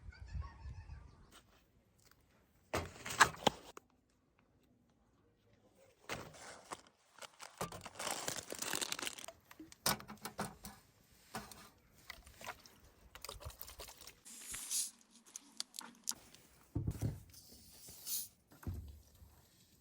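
Crinkling and rustling of material being handled, with scattered sharp clicks and taps, in irregular spells broken by short silent gaps.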